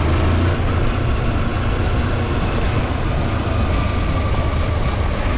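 Kawasaki Versys-X 300's parallel-twin engine running steadily under way, with a faint high whine over the low engine note.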